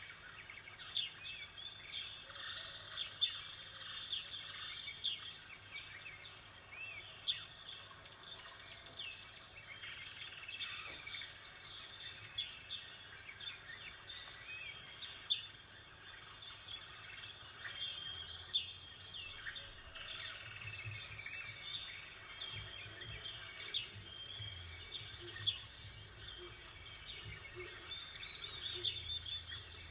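Small songbirds chirping and twittering: a continuous chorus of short calls, with rapid trills now and then, over a faint outdoor background hush.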